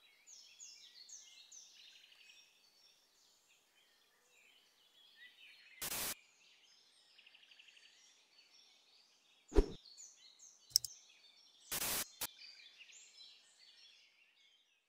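Faint birdsong, quick chirps and twitters, broken by about four short, loud bursts of noise or clicks between roughly six and twelve seconds in.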